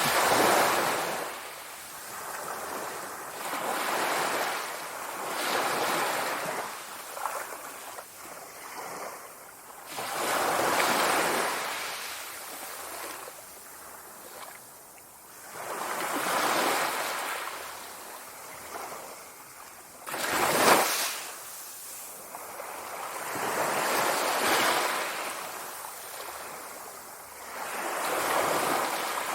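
Sea waves breaking and washing up on a shore, each surge swelling and fading every two to six seconds, one sharper, louder break about 21 seconds in.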